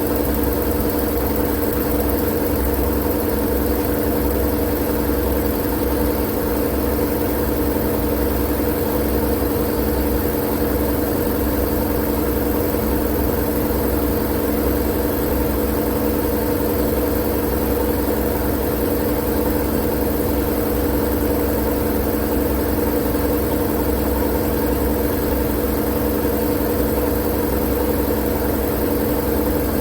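Steady, unchanging white-noise drone: an even hiss with a low rumble and a steady machine-like hum running through it.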